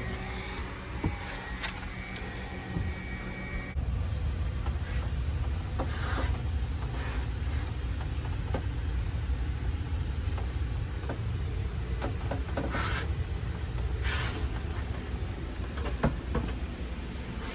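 A steady low rumble that becomes louder about four seconds in, with scattered clicks and a few short rushing sounds.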